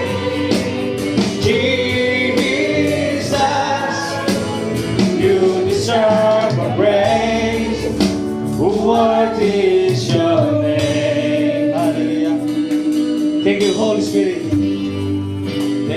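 Gospel worship music: voices singing a praise song over band accompaniment with a steady percussion beat.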